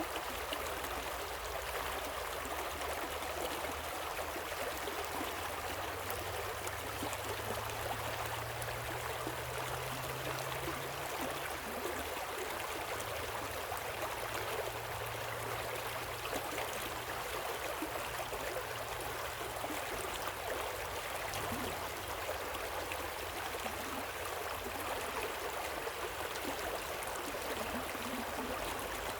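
Waterfall and river water rushing steadily, an even wash of noise that does not change.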